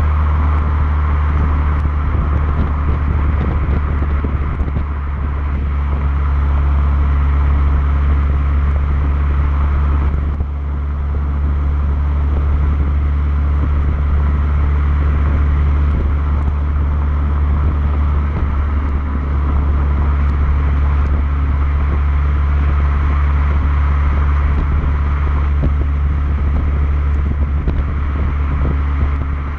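Renault Megane R26's turbocharged 2.0-litre four-cylinder running steadily through its standard exhaust, a low drone, with a brief drop in level about ten seconds in.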